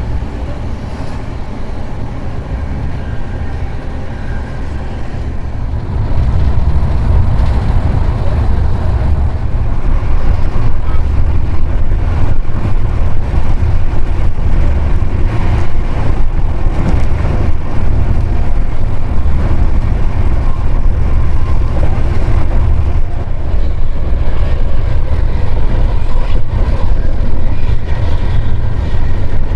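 Passenger train running along the tracks: a steady, loud low rumble with frequent clicks and knocks. It gets markedly louder about six seconds in.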